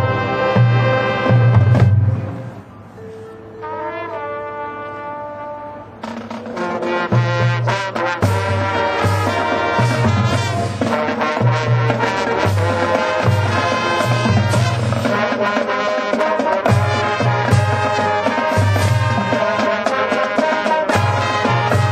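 Marching band playing with full brass and percussion. About two seconds in it drops to a soft passage of a few held notes, and the full band comes back in loudly about six seconds in.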